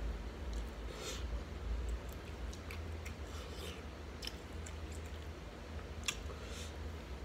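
Eating shrimp by hand: close-up chewing and small wet crackles and clicks as fingers pick through the shrimp in a bowl, with one sharper click about six seconds in, over a steady low hum.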